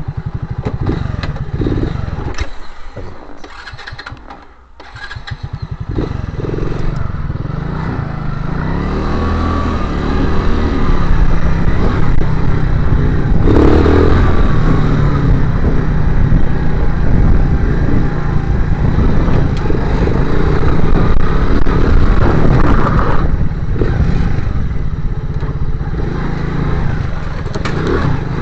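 Motorcycle engine running under way, its pitch rising and falling with the throttle. It eases off briefly about four seconds in, then pulls louder and holds steady.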